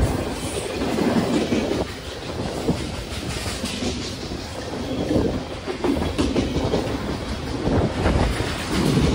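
Long BNSF freight train's cars rolling past, steel wheels clattering and rumbling over the rail joints.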